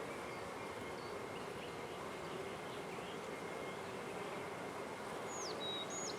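Honey bees humming steadily around an opened hive during a frame inspection, an even continuous buzz. Two short high chirps come near the end.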